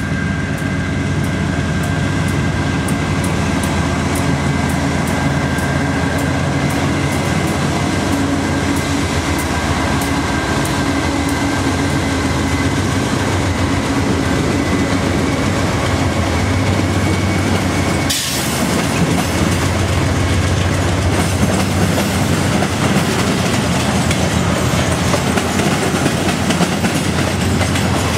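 A CN train rolling past close by: a steady rumble of cars on the rails with an even clickety-clack of wheels over rail joints. A faint high steady ring sits over it for the first two-thirds, and the noise briefly dips about 18 seconds in before carrying on.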